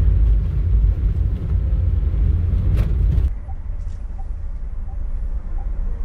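Steady low rumble of a motor vehicle on the move, engine and road noise, with an edit about halfway through to a quieter stretch of the same rumble.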